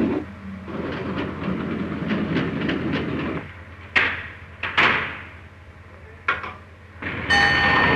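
Steam locomotive getting under way: running noise with light ticks of the wheels, then a few sharp, separate exhaust beats, and a steady high whistle starting near the end.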